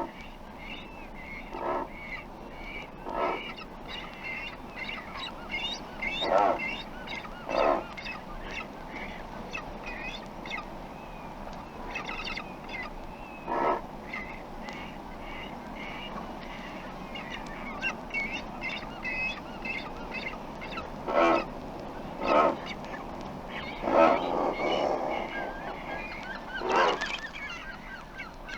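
Double-crested cormorants calling: about ten short, low-pitched calls at irregular intervals, each a fraction of a second long, over a steady background of many fainter, higher chirping calls.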